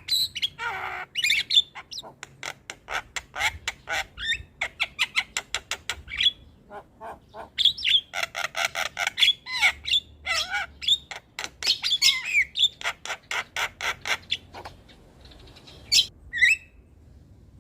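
Javan myna (jalak kebo) singing in full song: a fast, varied string of clicks, harsh squawks and whistled gliding notes, easing off briefly near the end before a couple more calls.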